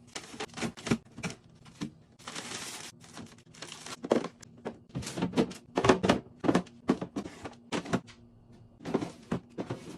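Plastic storage containers and food packages being handled and set down in a refrigerator: a string of sharp clicks and knocks, with a short rustle about two seconds in.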